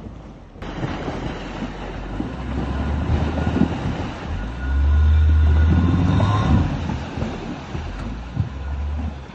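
ATV engine running under way as it drives, with a steady low drone and rumbling noise above it. It grows louder for a couple of seconds in the middle.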